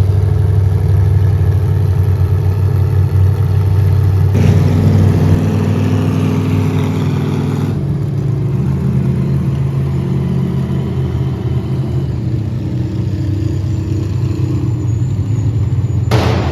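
Vehicle engine running steadily, its pitch stepping up about four seconds in and dropping back about eight seconds in.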